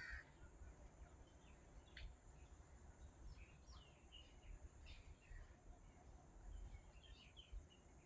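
Faint, scattered chirps of small birds, with a steady high-pitched drone underneath, like insects, and a low rumble.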